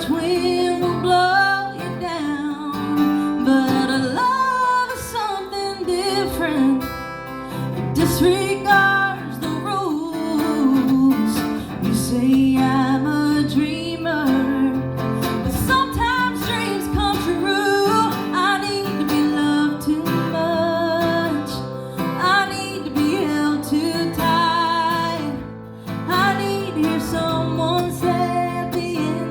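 A woman singing with strummed acoustic guitar accompaniment, her held notes wavering with vibrato.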